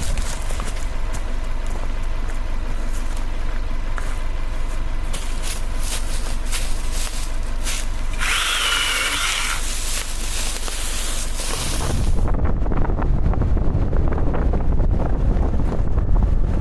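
A power tool running steadily, with a brief higher, harsher passage about eight seconds in; from about twelve seconds it gives way to heavy low rumbling noise like wind on the microphone.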